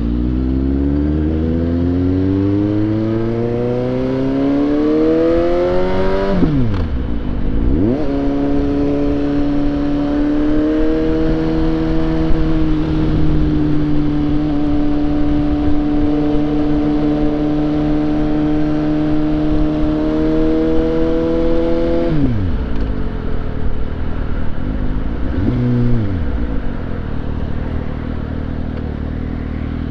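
Suzuki GSX-S750's inline-four engine accelerating under way, its pitch rising for about six seconds. The pitch drops sharply and climbs again, holds steady at a cruise for about fourteen seconds, then falls as the throttle closes. Near the end there is one short blip, and the engine runs low.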